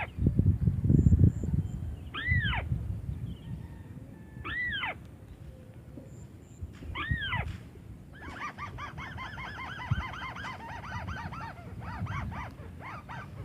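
White-browed crake calls: single arched, nasal notes about every two seconds, then, from about two-thirds of the way through, a fast chattering series of rapid notes. A low rumbling noise on the microphone is loudest near the start.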